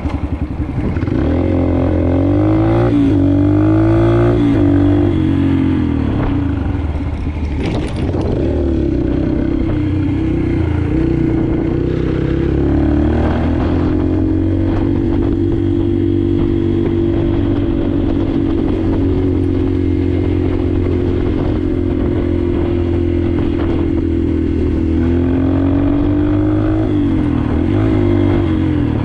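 Yamaha TT-R125 pit bike's single-cylinder four-stroke engine under way, its pitch rising and falling several times in the first few seconds and again near the end, with a long stretch at a steady engine speed in between.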